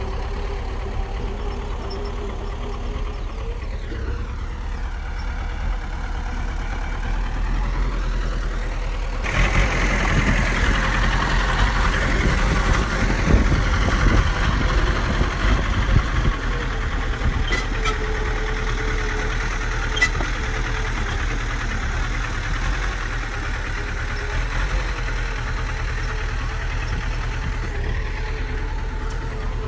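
Heavy diesel engine of a bulldozer running steadily, then working harder about nine seconds in, growing louder and rougher for several seconds before settling back to a steady run.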